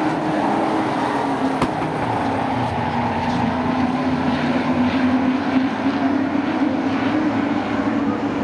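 Racing sport trucks' engines running on the track: a steady, loud drone that wavers slowly in pitch. One sharp click comes about a second and a half in.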